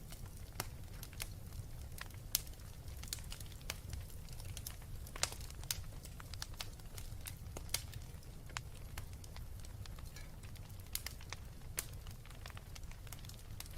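Wood fire burning, with irregular sharp crackles and pops, several a second, over a steady low rumble of flame.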